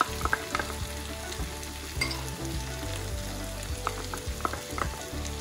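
Diced potatoes and onions frying in sesame (gingelly) oil in a non-stick pan: a steady sizzle. Light clicks and knocks just after the start and again about four seconds in, as green chillies and curry leaves are scraped from a glass bowl into the pan with a wooden spatula.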